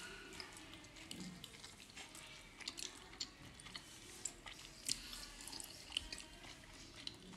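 Faint wet chewing of steamed momos, with scattered soft mouth clicks.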